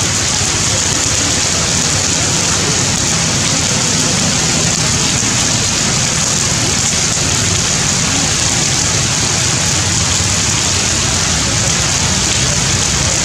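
Heavy rain falling steadily: a loud, even hiss with a low rumble beneath it.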